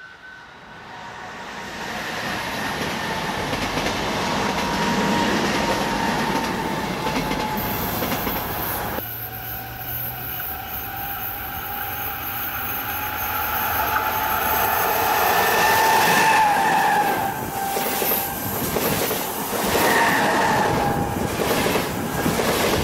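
Electric double-deck passenger trains running past: a steady rolling rumble of wheels on rail swells as a train approaches. Later, wheels squeal in wavering tones on the curve, and near the end there are sharp clicks of wheels over the rail as the coaches pass close by.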